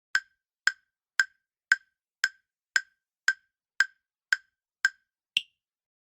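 Quiz countdown-timer sound effect: eleven short, evenly spaced ticks, about two a second. The last tick is higher-pitched than the rest.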